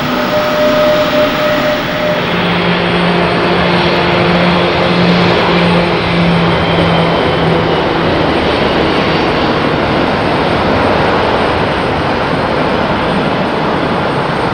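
Jet airliner engines at high power in a loud, steady rush of noise. A few faint steady tones in it fade out about eight seconds in.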